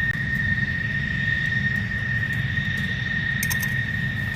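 Steady high-pitched whine over a low rumble from jet aircraft on the flight line, with a few short clicks about three and a half seconds in.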